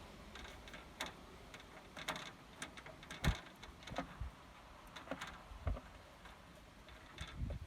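Scattered light clicks and knocks of parts and tools being handled, with one sharper knock about three seconds in.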